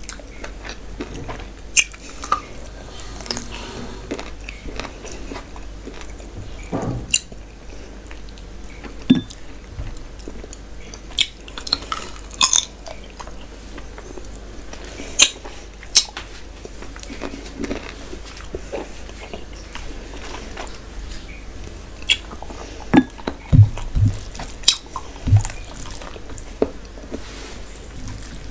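Close-miked eating sounds of a person chewing mutton curry, puri and rice: irregular chewing, lip smacks and bites, with a few louder smacks now and then.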